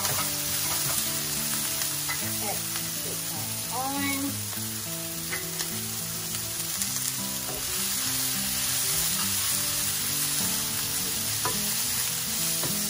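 Onions, shiitake mushrooms, bell peppers and cherry tomatoes sizzling as they are sautéed in a nonstick frying pan. A slotted spatula stirs them and now and then gives a light scrape or tap against the pan.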